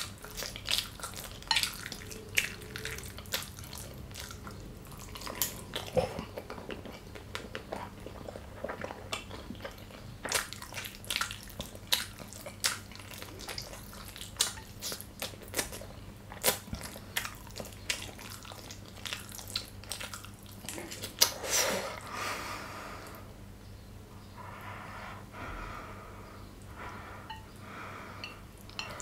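Close-up, wet, open-mouthed chewing of gyoza dumplings with duck meat filling. It is a steady run of moist smacks and clicks, one or more a second, and it gets softer over the last few seconds.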